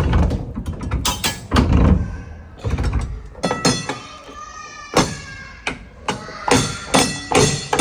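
A string of sharp knocks and thunks, several of them close together in the second half, with a brief ringing tone in the middle.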